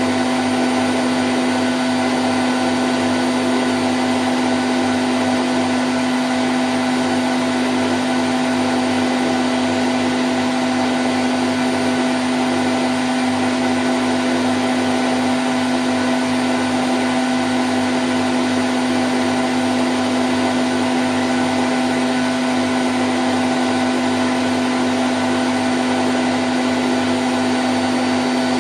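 Candy Grand O' F106 washing machine in its spin cycle at 1000 rpm: a steady, even whirring with a constant low hum running under it.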